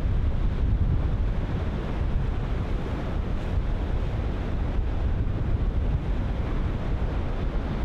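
Ocean surf breaking steadily, wave on wave, with wind buffeting the microphone as a heavy low rumble.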